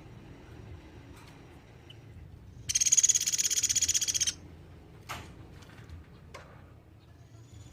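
Pelatuk beras woodpecker giving one loud, high, rapid trill of about a second and a half, followed by two short sharp notes.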